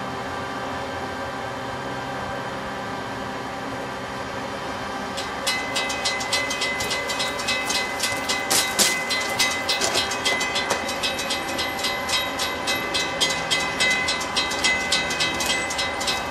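A railroad grade-crossing warning bell starts about five seconds in and rings on in rapid, even strikes, a sign that the crossing gates are activating for an approaching train. Before it there is only a steady hum.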